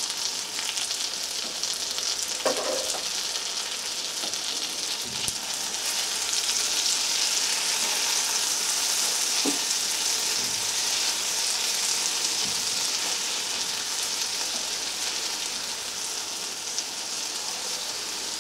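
Semerenko apple wedges frying in butter with a little sugar: a steady sizzle, with a spatula stirring and turning them now and then.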